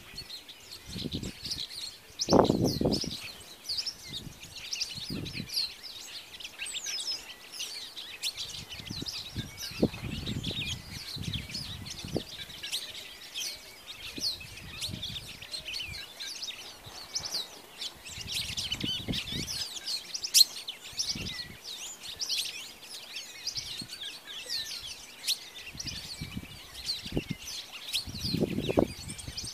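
Many small birds chirping and calling at once in a dense, continuous chorus of quick high notes. A few low thumps come through, the loudest about two and a half seconds in and again near the end.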